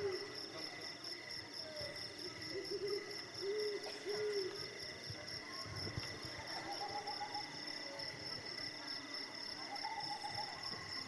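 Night ambience of steady, high-pitched cricket chirring, with an owl hooting in short pairs a few times in the first half.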